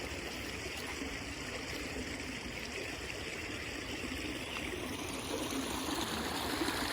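Creek water running steadily, growing a little louder near the end.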